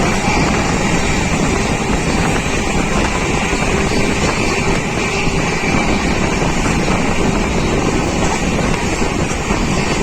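Passenger train running steadily, a continuous rumble with wind buffeting the microphone.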